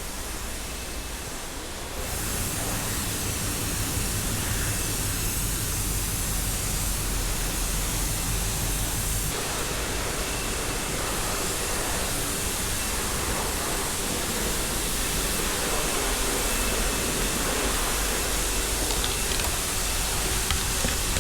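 High-pressure water spray at a self-service car wash bay, a steady loud hiss that starts about two seconds in and keeps going.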